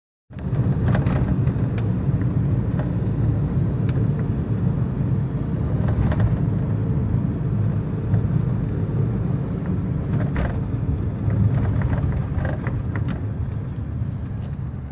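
Steady low rumble of a moving road vehicle, cutting in a moment after a brief silence, with a few light knocks.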